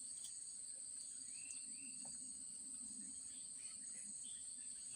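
Insects singing in a steady, high-pitched drone, with a few faint short calls about a third of the way in.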